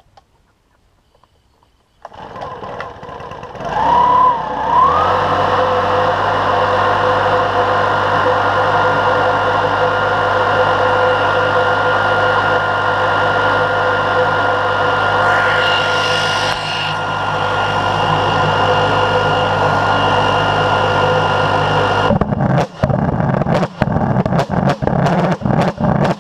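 Homemade pulse jet engine with afterburner starting up: a rush of noise, then it catches about four seconds in with a quick rise in pitch and settles into a loud, steady drone with a strong whistling tone. Near the end the steady drone breaks into rapid, irregular pops.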